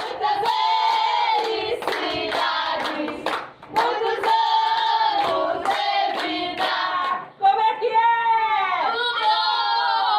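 A group of voices singing a birthday song together to steady rhythmic hand clapping.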